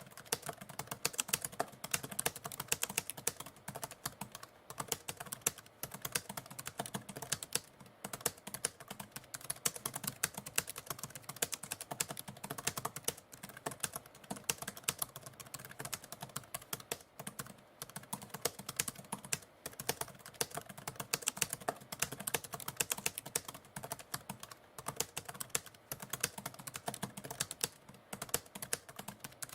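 Typewriter keys struck in a fast, continuous stream of clicks, many per second, with short breaks every few seconds.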